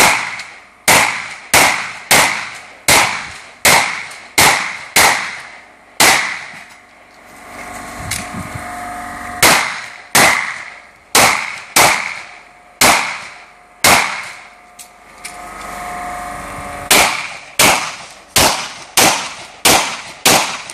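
Semi-automatic pistol fired in fast strings during a practical shooting stage, a shot roughly every half second to a second. Two pauses of a couple of seconds break the shooting, once in the first half and once in the second.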